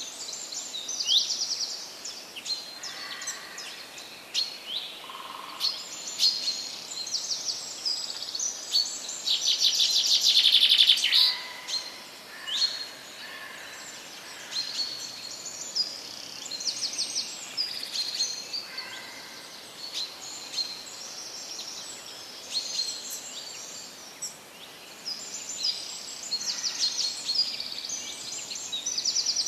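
Songbirds singing and chirping: many quick high chirps and rapid trills overlapping, with the loudest trill about ten seconds in.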